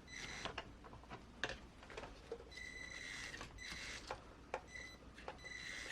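Small electric motor and drivetrain of a Traxxas TRX-4M crawler fitted with RCAWD portal axles, whining faintly in several short bursts as the throttle is pressed, with a few light clicks between them.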